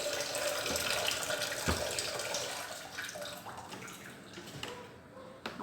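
Water running from a tap into a cooking pot, gradually fading toward the end.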